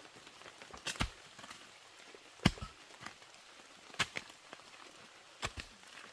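Sharp knocks at a slow, fairly even pace, about one every one and a half seconds, some doubled, like strokes of chopping or hitting.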